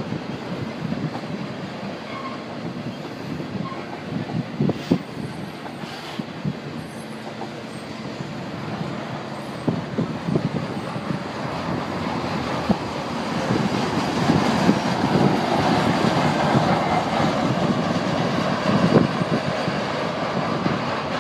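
Freight cars of an intermodal train carrying highway trailers rolling past. A steady rumble of steel wheels on rail, with scattered clanks and knocks, gets louder about two thirds of the way through.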